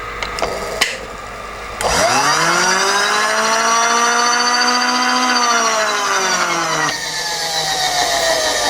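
Grinding wheel grinding hard steel, throwing sparks. A loud whine bends up in pitch about two seconds in, holds steady, then slides down from about seven seconds on.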